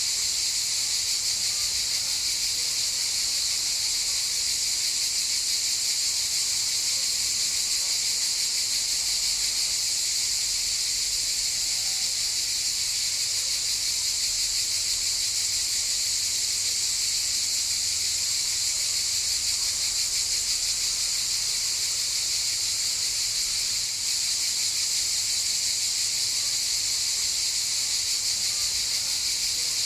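A chorus of cicadas buzzing in a steady, unbroken high-pitched drone.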